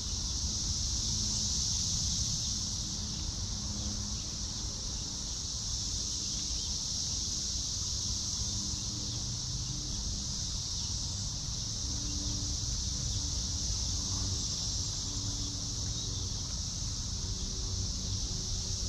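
A steady, unbroken high-pitched chorus of insects buzzing in the background, with a low rumble of wind on the microphone underneath.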